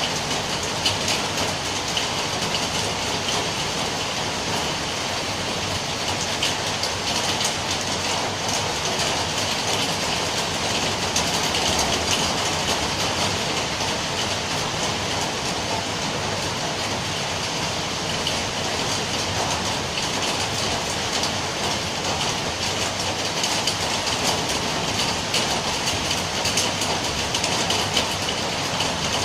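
Steady heavy rainfall: a constant hiss dense with the ticks of individual drops striking a surface.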